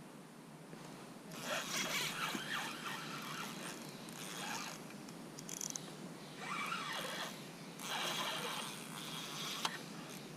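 Fishing reel being cranked with a mechanical whirring rattle in several bursts, one long one about a second in and three shorter ones later.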